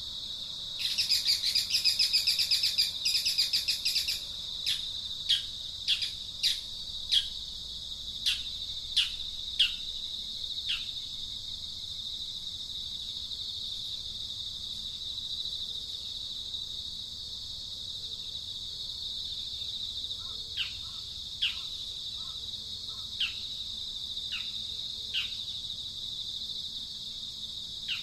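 Outdoor birdsong over a steady high drone of insects: a bird gives a series of short, quick, downward-sliding notes, roughly one every half second, in two runs. About a second in, a loud, fast, rattling chatter lasts for about three seconds.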